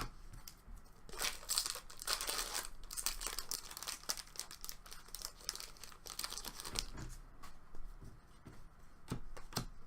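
Trading card pack wrappers crinkling and tearing as packs are opened, with cards being handled: a run of rustles and small clicks, busiest in the first few seconds.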